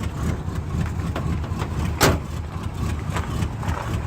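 Box Chevy Caprice engine idling steadily, with one sharp clack about two seconds in.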